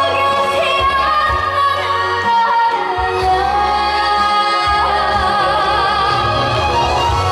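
Korean trot song sung live by a female singer, with long wavering held notes over band accompaniment with a steady bass line.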